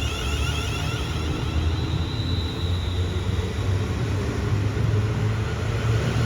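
Train running through the station: a steady low rumble with faint high-pitched whining tones over it.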